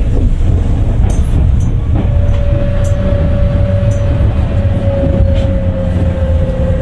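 Tokyu 9000 series electric train running: a heavy, steady rumble of wheels and running gear, with a single tone from its early Hitachi GTO inverter motor drive that sets in about two seconds in and slowly falls in pitch.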